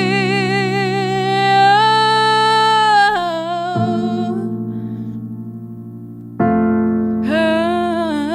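A female singer holds a long note with vibrato over keyboard chords, stepping up to a higher held note before letting it go. Keyboard chords then ring out alone and fade until a fresh chord is struck, and the voice comes back in near the end.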